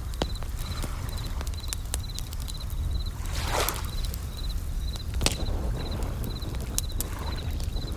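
Campfire crackling with scattered sharp pops over a low steady rumble, a soft swell of waves washing in about three and a half seconds in, and a bell cricket's high ringing chirp repeating about twice a second.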